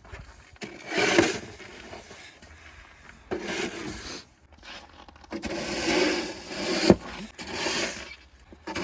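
Snow being cleared with a shovel: four separate scraping strokes, with one sharp knock about seven seconds in.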